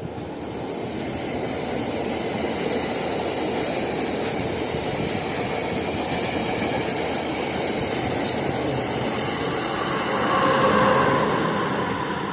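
A train running past at speed: a steady, loud rush of wheels on the rails. A ringing tone joins near the end as it is loudest.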